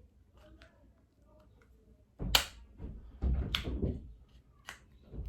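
Scissors cutting through a crab leg shell: a sharp crack about two seconds in, then a longer crunching cut and a small snap.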